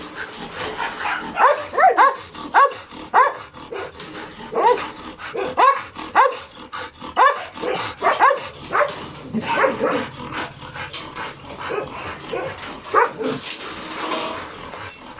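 Excited dog yipping and whining, a string of short high-pitched cries, most frequent in the first half and thinning out later.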